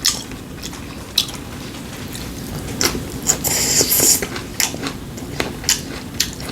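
People chewing food at the table, with scattered small clicks of chopsticks and tableware and a short noisy burst a little past halfway.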